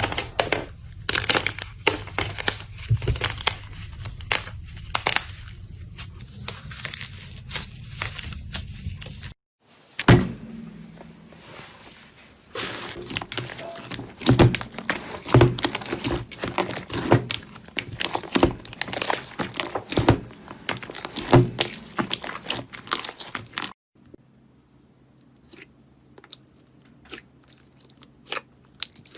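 Slime being squeezed and poked by hand, giving dense crackling and popping clicks. It plays in three separate clips, and the last one is quieter with sparser clicks.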